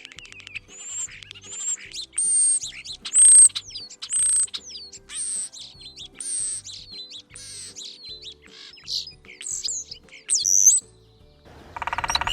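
European starling calling: a run of about a dozen high, clear whistled notes, roughly one a second, several of them sliding down in pitch.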